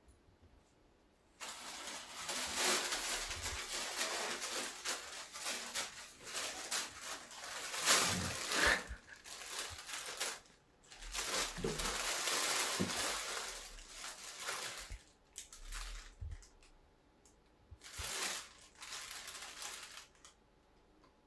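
Rustling and crinkling from a cat at play, pouncing and scrabbling at something that crinkles. The noise comes in several bouts with short pauses, then stops near the end.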